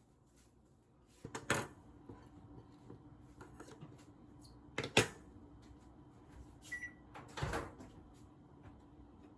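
Household handling sounds: a few sharp knocks and clunks, about a second and a half in, at five seconds and around seven and a half seconds, over a faint steady hum, with one short high beep just before the last knock.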